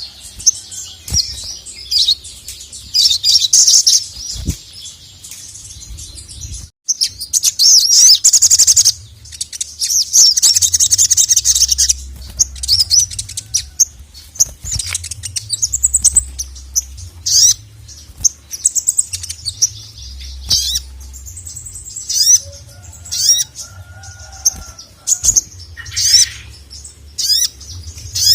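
Male sogok ontong (sogon), a sunbird-family cage bird, calling in full song: loud, rapid, high chattering trills in bursts of a second or two, with short sharp notes and quick downward-sweeping calls between them.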